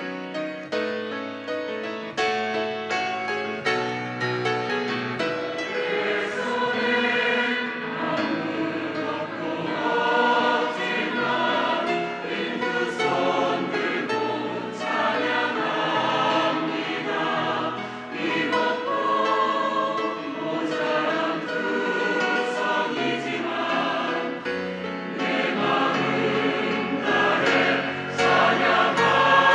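Church choir singing a sacred anthem, many voices together, swelling louder toward the end.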